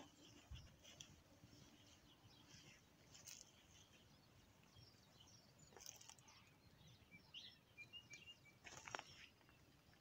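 Near silence with faint birdsong: scattered short chirps, a run of brief high calls a couple of seconds before the end, and a few soft clicks.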